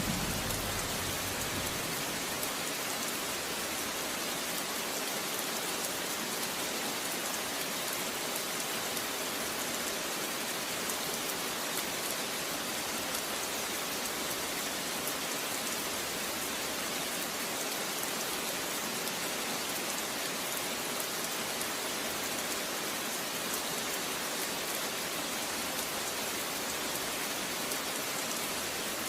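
Steady heavy rain falling on a surface, an even dense hiss. A low rumble of thunder dies away in the first second.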